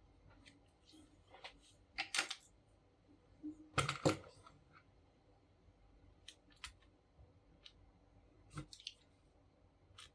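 Scattered clicks and clatters of small hard parts being handled, with louder knocks about two and four seconds in.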